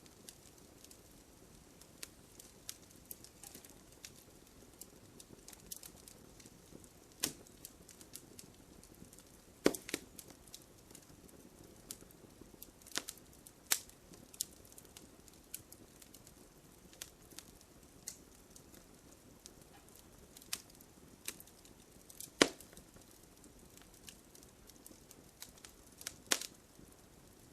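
Wood fire crackling: irregular sharp snaps and pops over a low steady hiss, with a few louder cracks about ten seconds in and again past twenty seconds.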